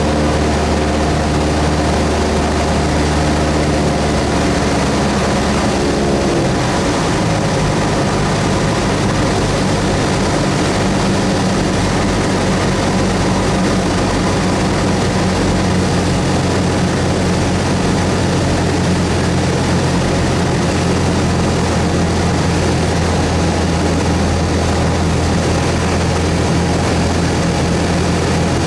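Cessna 172S's four-cylinder Lycoming piston engine and propeller running steadily; the engine speed changes about six seconds in, then holds.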